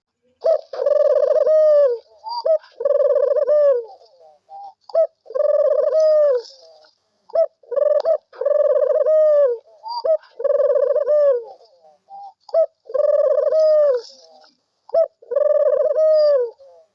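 A bird cooing over and over in about eight calls, each a second or so long and dipping in pitch at the end, with faint high chirps alongside.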